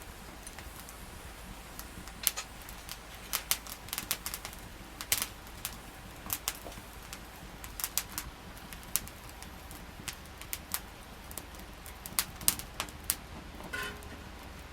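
Wood fire crackling, with sharp irregular pops and snaps of burning wood over a low steady hiss.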